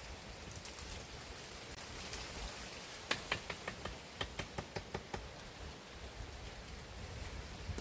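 A quick run of about a dozen light, sharp knocks over about two seconds, a few seconds in, over a steady faint hiss.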